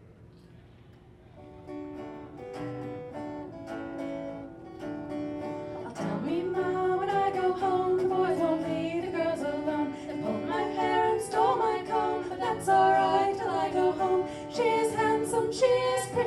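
Folk band's instrumental introduction: plucked string notes fade in from quiet, and about six seconds in a louder melody line with sliding pitch joins over them.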